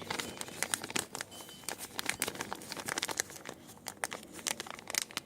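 Hands handling small RC clutch parts: irregular crinkling with many sharp little clicks.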